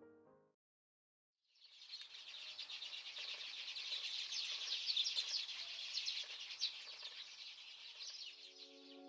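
A flock of sparrows chirping together at dawn, many overlapping chirps. The chirping starts suddenly about a second and a half in, after a brief silence.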